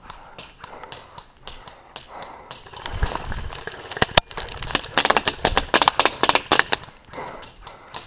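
Airsoft guns firing: scattered single sharp cracks, then a fast burst of rapid shots about five seconds in, with some low handling or footstep rumble.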